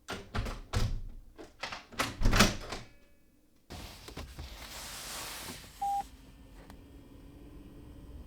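A quick run of knocks and thumps, then a faint steady hiss with one short high beep.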